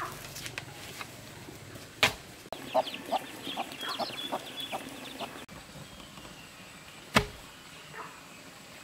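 Chickens clucking in a quick run of short calls, set between two sharp knocks about two and seven seconds in.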